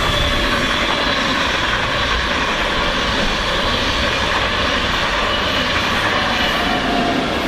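A train passing close by: a loud, steady rushing and rolling noise that holds level throughout.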